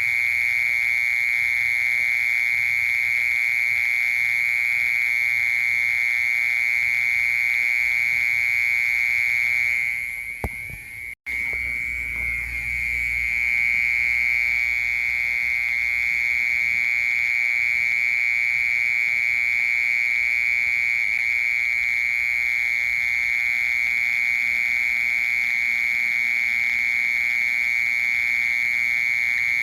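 Cricket singing: a loud, unbroken high-pitched trill. It fades about ten seconds in, cuts out for an instant just after eleven seconds, then builds back and carries on steadily.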